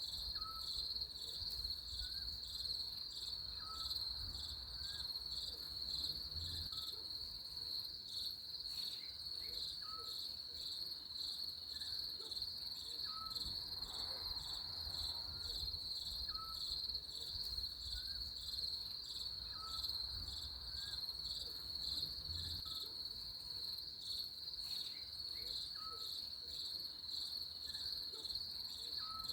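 Crickets chirping in a steady, rapidly pulsing high trill, with faint short chirps repeating lower down every second or two.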